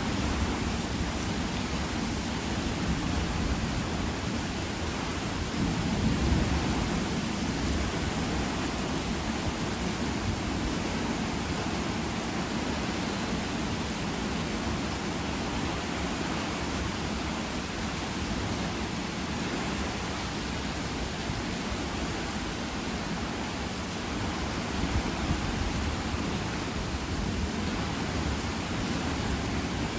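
Steady heavy rain, an even hiss, with a low rumble swelling briefly about six seconds in and again faintly near the end.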